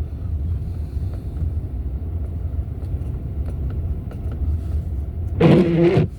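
Steady low road and engine rumble inside a vehicle's cabin while driving on a snowy road. Near the end, a short, louder pitched sound lasts about half a second.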